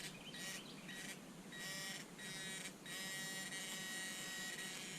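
Metal-detector pinpointer sounding a high beep in short pulses that lengthen and merge into a steady tone about three seconds in: it is right on a buried metal target.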